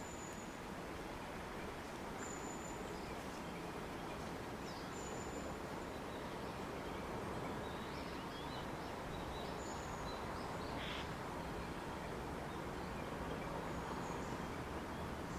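Steady outdoor hiss with scattered short, high bird calls, and a brief harsher call about eleven seconds in.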